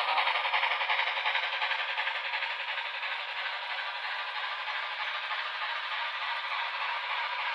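HO scale model train running on the layout: a steady rattling clatter that eases off over the first couple of seconds, then holds level.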